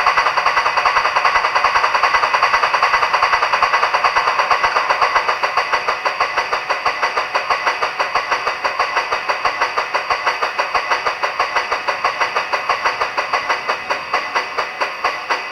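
Model Big Boy steam locomotive's DCC sound decoder making rapid, even exhaust chuffs through the model's small speaker as it runs. The chuffs spread out and grow quieter over the last several seconds as the locomotive is throttled back towards the slowest speed step.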